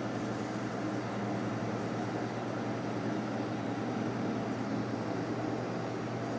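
Steady hum and rush of a box fan in the room, with cicadas outside, over which the faint sound of Freon refrigerant moving through a Fedders rotary-compressor window air conditioner that has just been shut down can just be made out.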